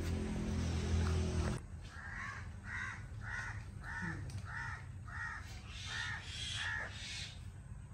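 A bird calling repeatedly, about eight short calls evenly spaced a little over half a second apart. A low steady hum before it cuts off suddenly about a second and a half in.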